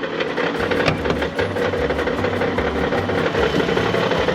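Minivan engine idling with a bad, rapid, regular knock from inside the engine.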